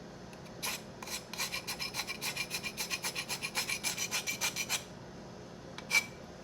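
Rapid rasping scrapes, about five strokes a second, as cinnamon is scraped out for the batter; the strokes stop about five seconds in and one last sharp scrape follows.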